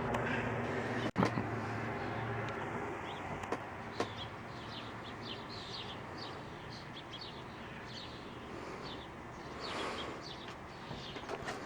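Small birds chirping many times in quick, short downward notes, starting a few seconds in. A low steady hum fills the first two seconds, and a rush of noise swells and fades near the end, like a vehicle going by.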